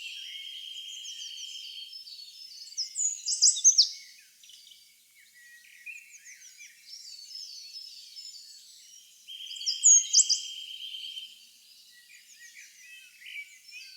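Birdsong chorus: many birds chirping, with a buzzy trill held for about two seconds twice and two bursts of loud, sharp calls.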